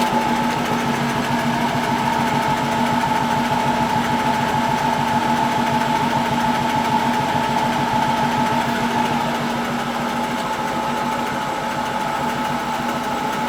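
1974 Zoppas Superautomatic 242 washing machine running: a steady motor hum with a high whine, easing slightly about nine seconds in.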